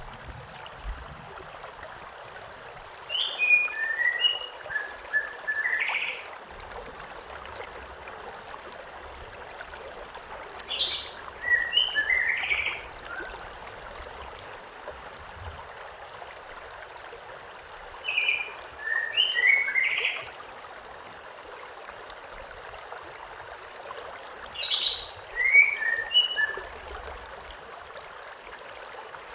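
A songbird repeating a short song of several quick chirping notes four times, about every seven seconds, over the steady rush of a stream.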